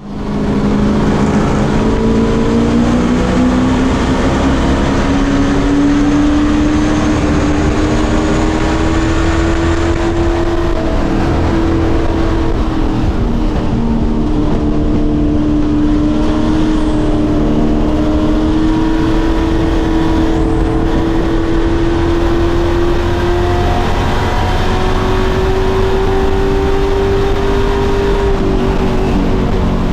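Pro Truck race engine running hard at high, fairly steady revs, its pitch climbing slowly and dipping briefly about eleven seconds in and again near the end.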